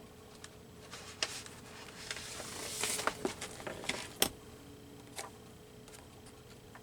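Paper handling: a rustling, sliding swell of paper with several light clicks and taps as a glued collage page is moved into place.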